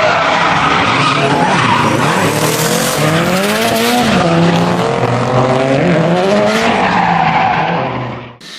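Nissan 180SX drift car sliding, its engine revving up and down under a haze of tyre screech. The sound cuts off shortly before the end.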